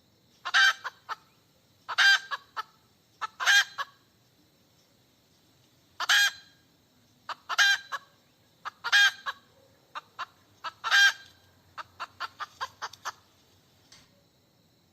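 Domestic hen cackling: loud calls repeated every second or two, each trailed by a few short clucks, then a quick run of short clucks about twelve seconds in. The uploader takes the cackling for a hen calling for a mate.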